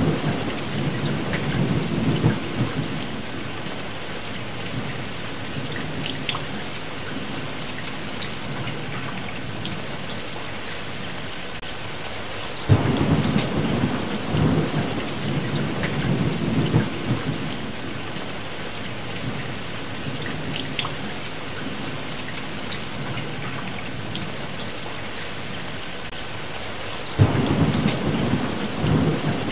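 Steady rain with rolling thunder: a rumble at the start, another that breaks in suddenly about 13 seconds in, and a third near the end, each fading over a few seconds.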